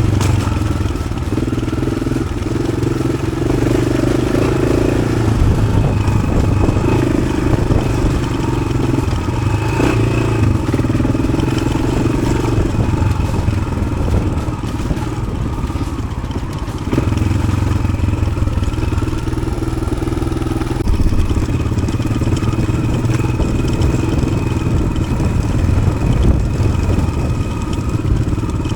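Yamaha XT600's air-cooled single-cylinder four-stroke engine, fitted with an aftermarket Arrow exhaust, running under way off-road. The engine note rises and falls several times as the throttle is opened and closed.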